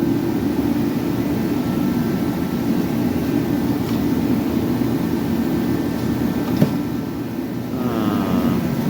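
Steady mechanical drone from a running machine, with a single sharp click about six and a half seconds in.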